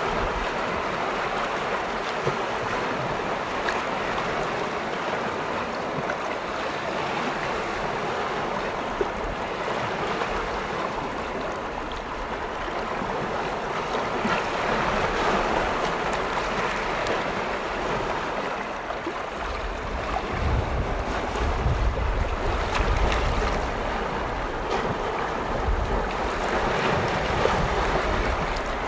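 Waves on Lake Vänern washing steadily against the shore. About two-thirds of the way in, gusts of wind start to rumble on the microphone.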